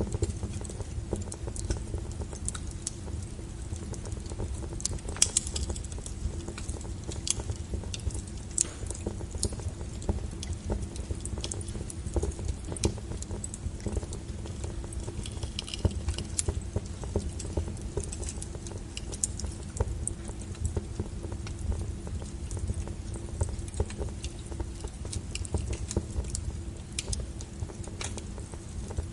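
Wood fire burning, with a steady low rumble of flames and irregular crackles and pops of burning logs.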